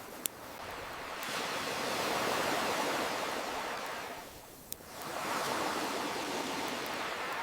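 Ocean waves washing in and out in slow swells, with a few sharp pops from a crackling wood fire, one just after the start and one in the lull between waves.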